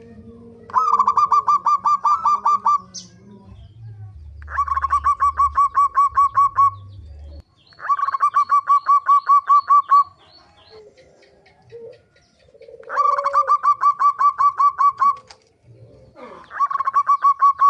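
Zebra dove (perkutut) calling: five bouts of rapid, evenly spaced notes, about six a second, each bout lasting about two seconds, the last still going near the end.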